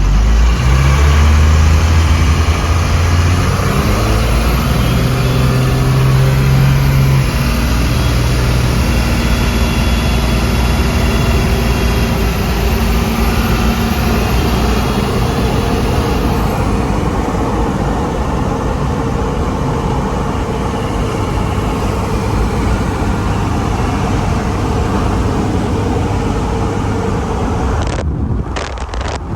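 Cummins diesel engine of a 1969 Dodge D200 crew cab running under way through a new custom exhaust, with road noise. The engine note shifts in pitch in steps over the first several seconds, then holds steady, and the sound cuts off abruptly about a second before the end.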